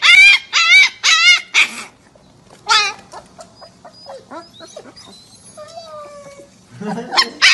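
Siberian husky puppies yipping and whimpering: four loud, high-pitched yips in the first two seconds and another near three seconds, then softer whimpers and whines, with loud yips again near the end.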